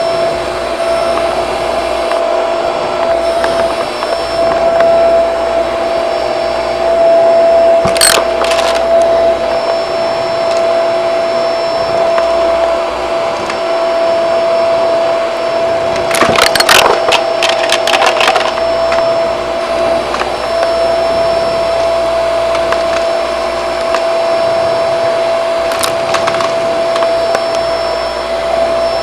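Shark vacuum cleaner running steadily with a constant whine. Brief bursts of clattering and crackling as debris rattles up through it, about eight seconds in, longest around sixteen to eighteen seconds, and once more near the end.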